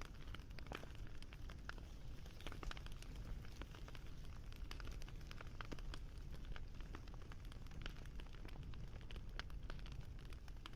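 Campfire crackling, with frequent irregular pops and snaps over a low steady rumble.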